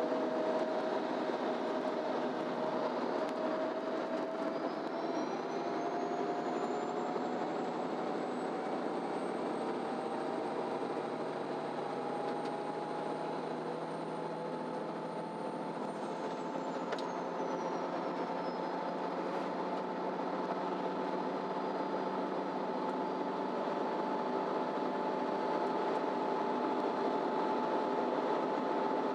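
MAN Lion's City Ü bus heard from the passenger cabin while under way: engine and drivetrain running over road noise, their tones slowly rising in pitch. A high whine rises from about four seconds in, holds, then falls away after about sixteen seconds.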